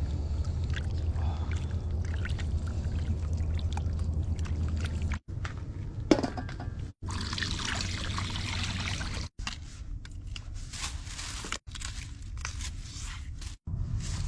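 Water pouring and sloshing as chopped chicken pieces are washed, over a steady low hum in the first few seconds. The sound breaks off abruptly several times.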